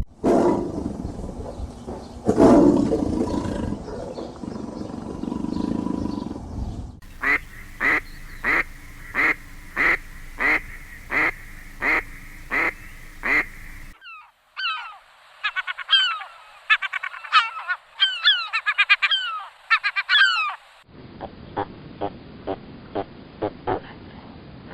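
A run of animal calls cut together from separate recordings. First comes a loud low call about two seconds in. Then a bird call repeats about twice a second, followed by a burst of high chirps and swooping whistles, and quick sharp calls near the end.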